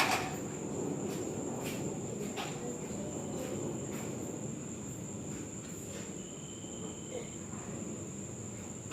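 Crickets chirping: one steady high-pitched trill under low outdoor noise, with a few faint clicks.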